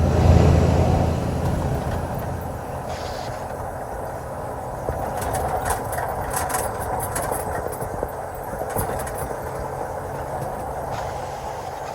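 Inside a moving semi-truck cab: steady diesel engine drone and road noise, loudest in the first second or two, with scattered light rattles partway through.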